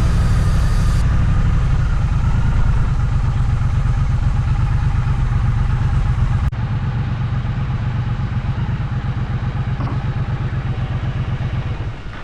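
Triumph parallel-twin motorcycle engine running steadily while riding along a road. The level drops slightly and abruptly about halfway through.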